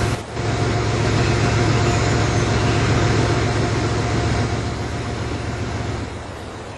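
Train passing: a steady low hum with a rushing, rolling noise that eases off after about four seconds and dies down near the end.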